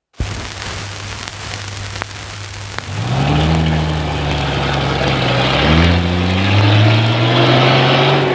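Truck engine sound effect opening an old record: the engine idles with a steady low hum under record hiss, then from about three seconds in it revs up through the gears, its pitch climbing, dropping back at a shift and climbing again.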